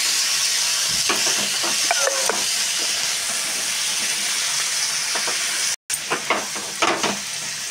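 Paneer cubes, onion, capsicum and tomato sizzling in a hot frying pan while a wooden spatula stirs them, with scattered clicks and scrapes of the spatula against the pan. The sizzle cuts out for a moment about six seconds in, then returns a little quieter with a few more scraping strokes.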